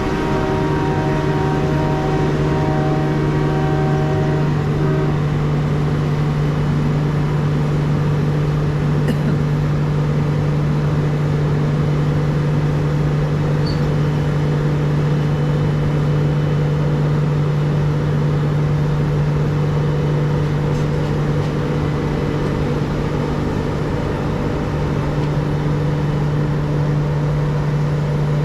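Diesel locomotive engine running steadily: a constant low hum with overtones, and a few higher steady tones that fade out about five seconds in.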